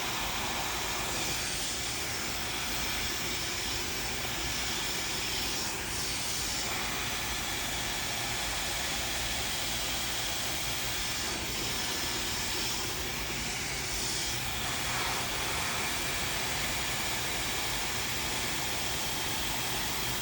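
Hair dryer running steadily, a continuous rush of blown air, with slight shifts in its hiss as it moves.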